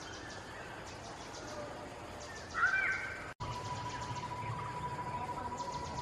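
Outdoor ambience with birds calling, one loud harsh call about two and a half seconds in. After an abrupt cut, a steady high tone runs on with faint rhythmic ticking above it.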